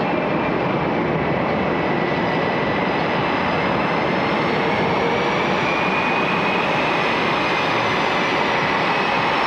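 Boeing F/A-18 Super Hornet jet engines running at ground idle, a steady rushing noise with a faint high whine that drifts slightly in pitch.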